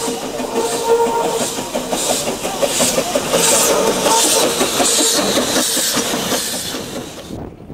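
Narrow-gauge steam locomotive working, its exhaust chuffing about twice a second over the clatter of wheels and carriages on the rails. The sound stops abruptly near the end.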